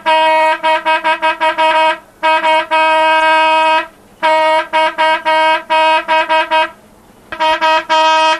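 A vehicle horn honked over and over at one steady pitch: rapid strings of short toots mixed with a couple of longer blasts, a brief gap near the end, then a few more toots.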